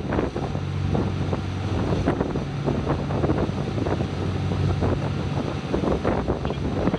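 Sightseeing boat's engine running with a steady low drone, with wind buffeting the microphone on deck.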